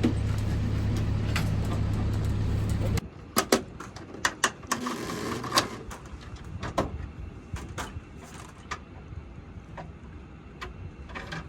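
Loud, steady machine noise with a deep hum that cuts off abruptly about three seconds in. After it come quieter scattered clicks and knocks, like handling or door sounds.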